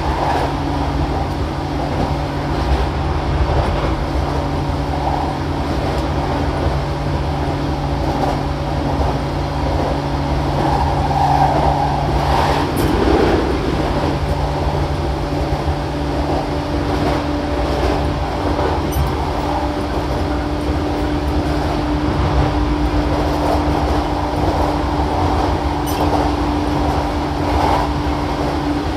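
Interior running sound of a JR East E233 series 7000-subseries motor car (MoHa E232-7202) at speed: a steady hum at constant pitch over the rumble of wheels on rail, swelling briefly about halfway through.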